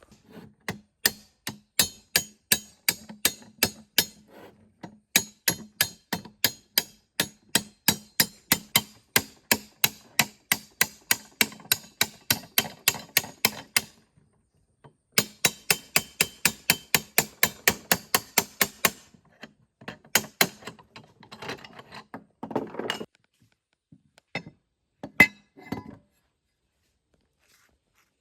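Hammer blows in rapid, regular runs of about four strikes a second, pausing briefly twice. Near the end they thin to a few scattered knocks.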